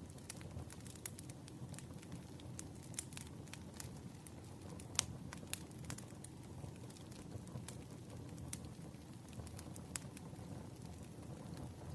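Wood fire burning: a steady low rumble of flames with irregular sharp crackles and pops from the burning logs, one louder pop about five seconds in.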